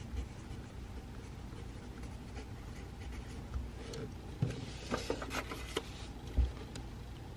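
Pencil writing on paper: a run of short scratching strokes and light clicks in the second half, with a low knock near the end, over a steady low room hum.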